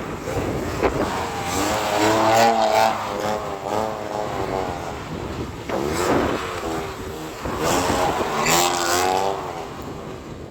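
Straight-piped BMW E92 328i straight-six engine revving hard under throttle in a drift, its pitch wavering up and down as the throttle is worked, with two strongest pushes about two seconds in and again near eight seconds. A steady hiss of tyre and road noise runs underneath.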